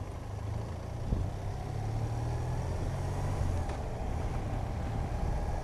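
Motorcycle engine running steadily on the move, with wind and road noise. There is a short thump about a second in.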